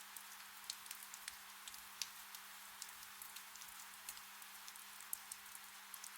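Gentle rain: a steady soft hiss with many irregular drop ticks, and a faint low steady hum underneath.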